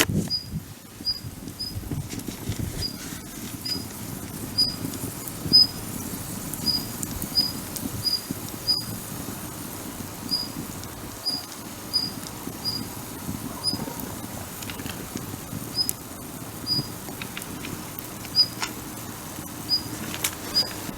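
Campfire crackling, with scattered sharp pops over a steady low rush. Through it runs a short, high chirp at one pitch, repeated irregularly about once or twice a second.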